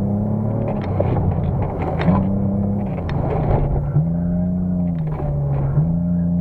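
Mercedes CLK 320's 3.2-litre V6 engine heard from inside the cabin, under hard acceleration and lifting off in turn. Its note drops about a second in, climbs again about two seconds in, falls at three, rises at four, dips briefly about five seconds in and climbs once more near the end.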